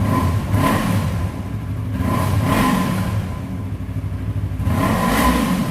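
Yamaha R3's parallel-twin engine through an Akrapovic slip-on exhaust, idling and revved up three times with short throttle blips.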